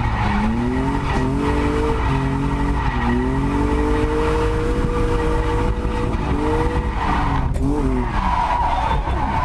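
BMW E36 Compact's swapped-in M52 2.5-litre straight-six revving hard through a drift, its pitch climbing, holding high for a couple of seconds in the middle, then dropping and rising again several times near the end as the throttle is worked, with tyres squealing throughout.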